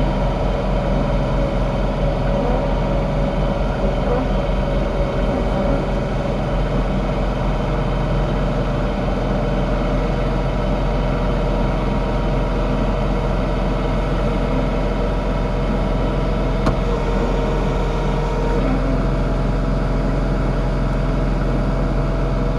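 John Deere 3046R compact tractor's diesel engine running steadily under load while driving its mid-mount snowblower. It holds an even pitch and level throughout, with one small tick about seventeen seconds in.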